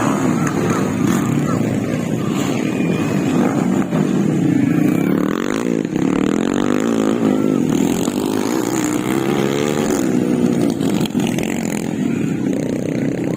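Several motocross bike engines racing together, each revving up and falling back in pitch so that their notes rise, dip and cross one another.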